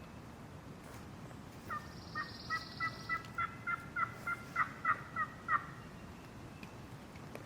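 A run of about thirteen turkey yelps, evenly spaced at roughly three a second and growing louder, lasting about four seconds.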